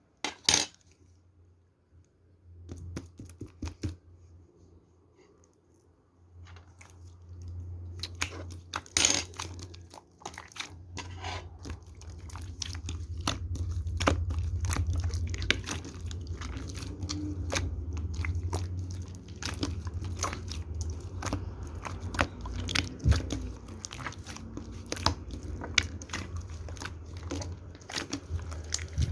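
Slime being squished and stretched by hand, making many sticky clicks and pops over a steady low hum. The clicks are sparse at first and come thick and fast from about eight seconds in.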